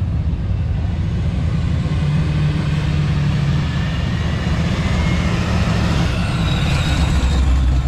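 Fox-body Ford Mustang's engine running low and steady as the car rolls slowly up and past, getting brighter and a little louder near the end as it comes close.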